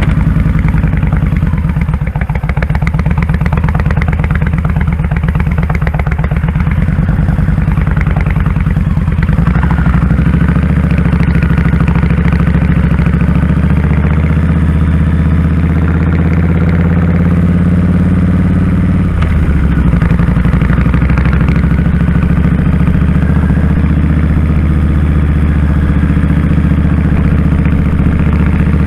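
2001 Kawasaki Drifter 1500's V-twin engine running on the road, a loud, steady low exhaust note whose pitch changes about a third of the way in and again around two-thirds of the way through.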